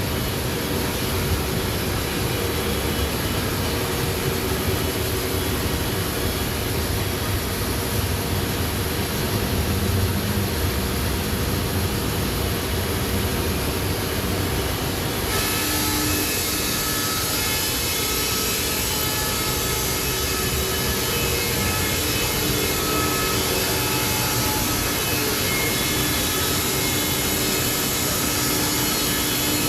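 Sawmill running steadily as it saws a log, a continuous loud machine noise. About halfway in, a brighter, higher hiss comes in suddenly and stays.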